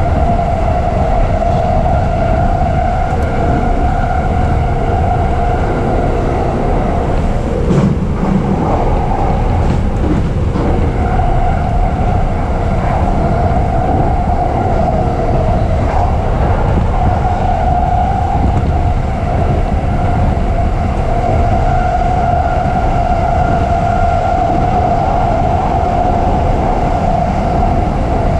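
E233 series electric commuter train running at speed, heard from inside the car: a steady rumble of wheels on the rails under a steady whine from the drive. A couple of knocks come about eight and ten seconds in, where the whine briefly dies away.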